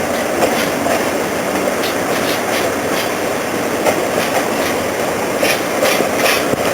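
Steam-hauled train running past: a steady rumble of wheels on rail, with a run of evenly spaced clicks in the last second or so.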